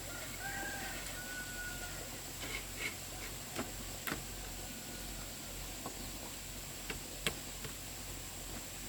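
A bird calling once in a long drawn note near the start, then a few short chirps, with several sharp knocks scattered through the rest.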